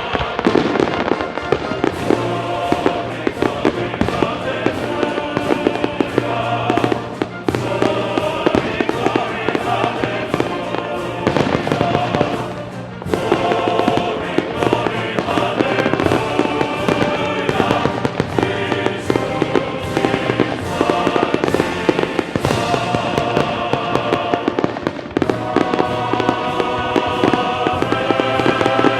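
Fireworks going off in rapid, near-continuous bangs and crackles, mixed with a music soundtrack. The bursts thin out briefly about halfway through, then resume.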